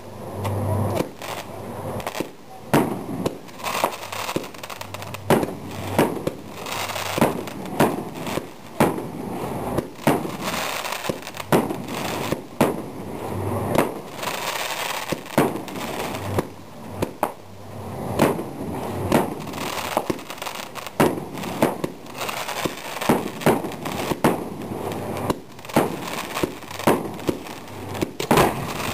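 Fireworks display: aerial shells bursting in a rapid, irregular series of sharp bangs, about one or two a second, with crackling between the bangs.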